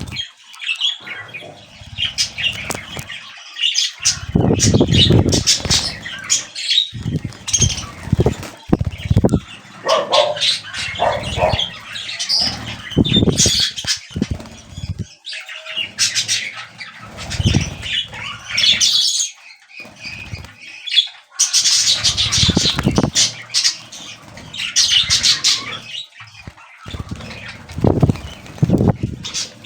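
Budgerigars flapping their wings in repeated loud bursts every few seconds, with some chirping between the bursts.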